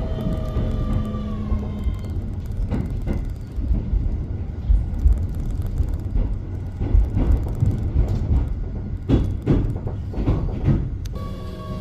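Electric train running: the motor inverter's whine falls slightly and cuts off about two seconds in. The train then rolls with a low rumble and a few wheel knocks over rail joints. The motor whine starts up again near the end.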